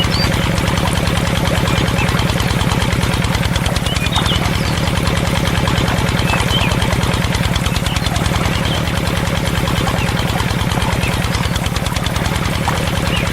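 Small engine, likely the home-made mini tractor's, running steadily with a fast, even chugging that holds the same speed throughout.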